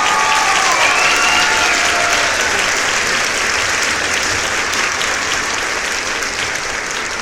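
Applause, a steady dense wash of clapping, with a few voices or whistles rising over it in the first two seconds or so; it eases off slightly toward the end.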